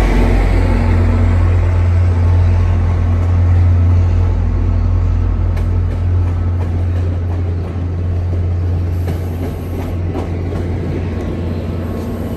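MBTA commuter rail diesel train rolling past the platform: a loud, steady low drone from the locomotive that slowly fades as the coaches go by.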